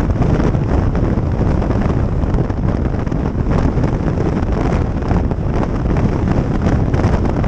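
Wind rushing over the microphone of a riding motorcycle, a loud steady rush with road and engine noise mixed in.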